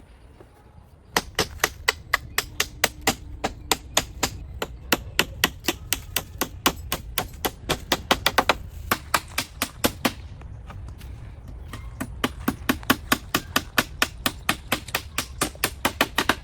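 A hand tool striking hard in quick, even blows, about four or five a second. The blows stop for about two seconds partway through, then carry on.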